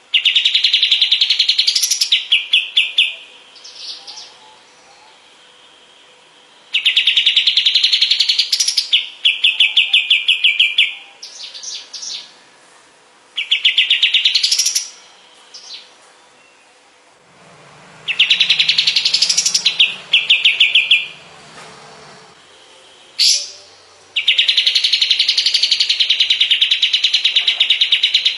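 Kapas tembak bird (a bulbul) singing loud, clear phrases about every four to six seconds. Each phrase is a held note that lifts at its end, then breaks into a quick run of repeated notes.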